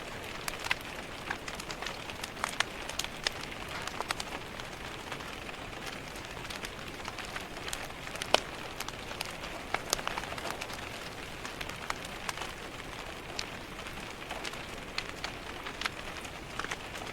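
Steady rain hiss mixed with a wood fire crackling: scattered, irregular sharp pops and taps over an even wash of rain.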